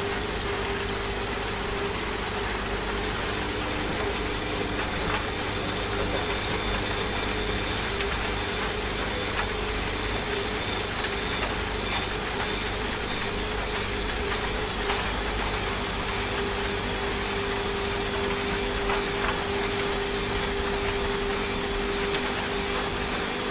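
Washing machine running with a steady motor hum, mixed with the even hiss of rain.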